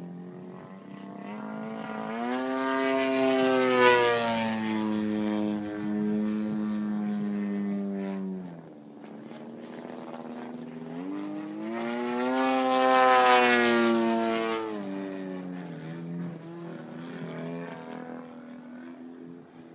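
Small propeller engine running on test, revved up and back down twice, its pitch rising and falling with each run-up before settling back to a lower, quieter speed.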